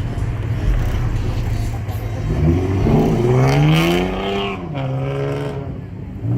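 A car engine idling, then revved once about two and a half seconds in. The pitch climbs for about two seconds, then drops back to idle.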